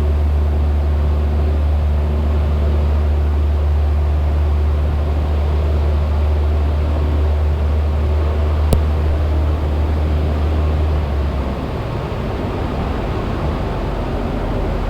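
Cessna 172's piston engine and propeller droning steadily in the cockpit, then dropping to a lower, rougher rumble about eleven seconds in as the power comes back to idle for a practice engine failure. A single sharp click sounds a little before the change.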